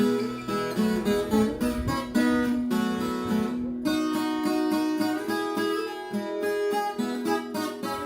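Music: an acoustic guitar strummed steadily, chord after chord.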